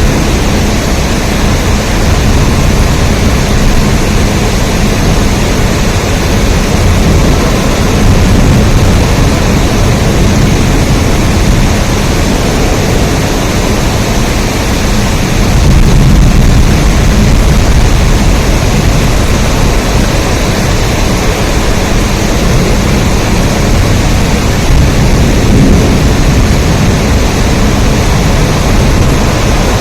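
Heavy rain falling, a loud, steady rush with no breaks and a deep low end.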